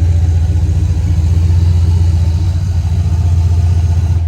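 Turbocharged 5.3 LS V8 (aluminum LC9) in a Nissan Hardbody running loud and steady, with an even pulse of firing strokes, then cutting off suddenly near the end.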